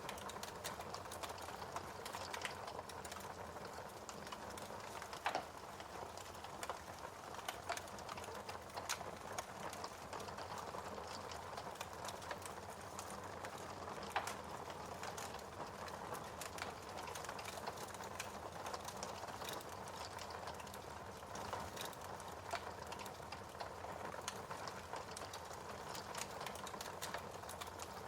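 Wood fire crackling: a steady soft hiss with frequent irregular snaps and pops, a few of them louder.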